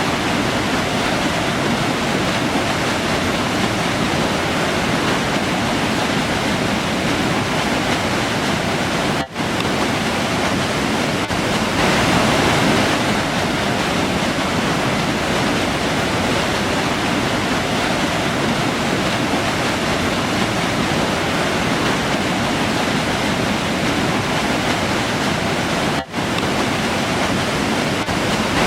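Steady rushing of a river flowing through a forest, a continuous wash of water noise. The sound dips out for an instant twice, about nine seconds in and near the end.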